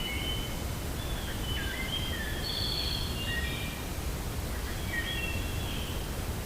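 Steady low wind rumble, with birds singing short clear whistled phrases over it, one cluster about a second in and another near five seconds.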